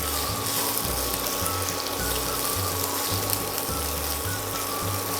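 Green chillies, garlic and cumin sizzling steadily in a little hot oil in a pan as they are stirred, with light scraping clicks from the stirring.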